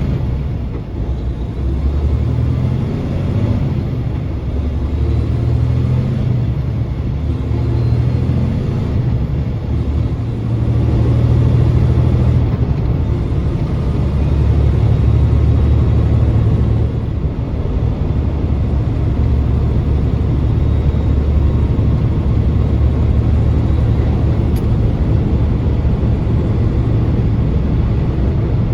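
A moving vehicle heard from inside the cab: a steady low engine drone with road noise. The engine's pitch and loudness step up and down a few times, rising about ten seconds in and dropping back around seventeen seconds.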